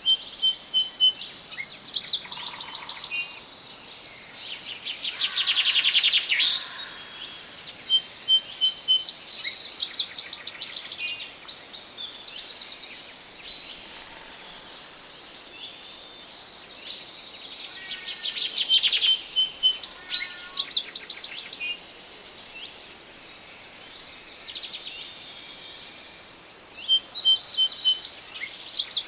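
Several forest birds singing and calling at once, overlapping high rapid trills and short repeated chirps, over a faint steady background hiss. The song swells twice, about six seconds in and again near twenty seconds.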